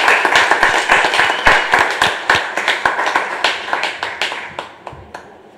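Applause: a crowd clapping, with a few heavier thumps mixed in, dying away over about five seconds.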